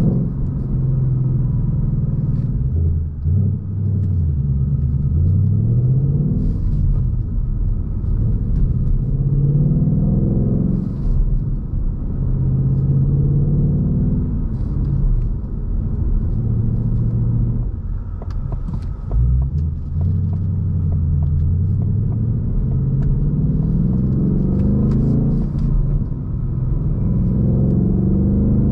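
2021 Ford Mustang Mach 1's 5.0-litre V8 heard from the driver's seat while driving, pulling up through the revs several times with the pitch dropping back at each gear change of the six-speed manual, with steadier cruising stretches between.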